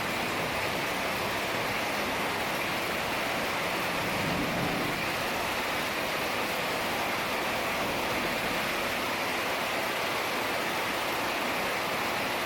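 Heavy rain falling steadily, a dense even hiss, with a brief low swell about four seconds in.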